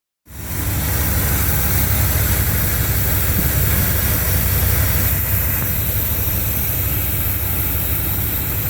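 Chevrolet 350 (5.7 L) V8, converted from throttle-body injection to an Edelbrock 600 CFM four-barrel carburetor, idling steadily. It starts about a quarter second in.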